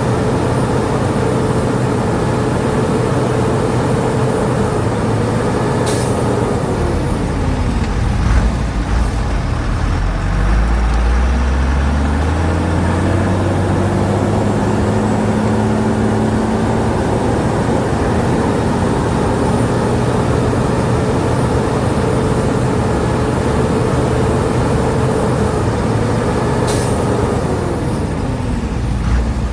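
Shantui DH17 bulldozer's diesel engine running under load. Its pitch drops about seven seconds in, climbs back and holds steady, then drops again near the end. Two brief sharp sounds come at the first and second drop.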